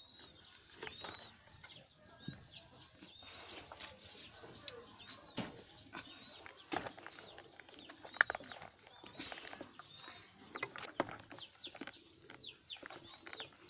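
Birds chirping in short high calls, with a quick run of chirps about three seconds in. Scattered knocks and rustling sound throughout, the loudest a sharp knock about eight seconds in.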